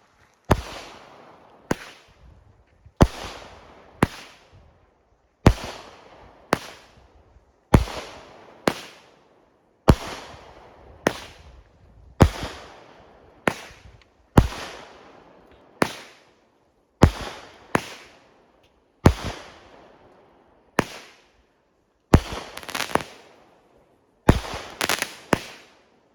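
Consumer fireworks going off in a steady series, about one sharp bang a second, each followed by a short fading crackle. Near the end the shots come quicker, in pairs and triples.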